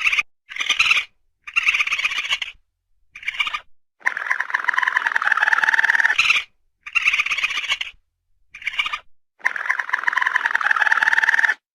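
Raccoon calling: a series of high, rapidly pulsing trills. Several short calls are broken by gaps, and two longer calls last about two seconds each.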